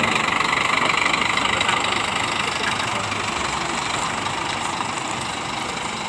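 Scania K410IB coach's 13-litre straight-six diesel idling steadily.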